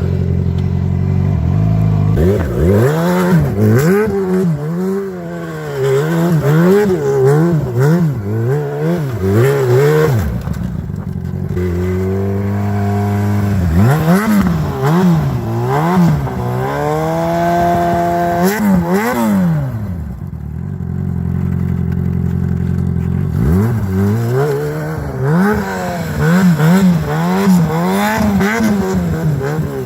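Sport motorcycle engine revved hard in quick repeated surges, the pitch swooping up and down about once or twice a second, settling to a steady idle for a couple of seconds about a third of the way in and again about two thirds of the way in.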